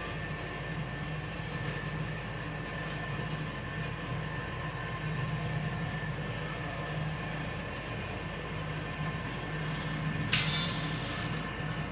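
Steady droning hum of running workshop equipment, with a brief hiss about ten seconds in.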